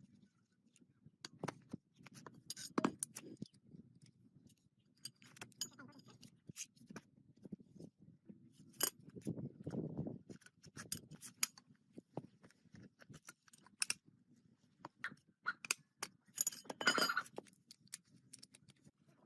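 Scattered small metallic clicks and clinks, irregular and sharp, with a busier cluster near the end, over low rustling handling noise.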